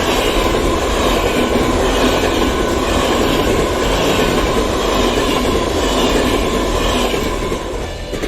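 Passenger train passing close on the rails: a loud, steady rumble of wheels and running gear, with a faint steady whine running through it, easing slightly near the end.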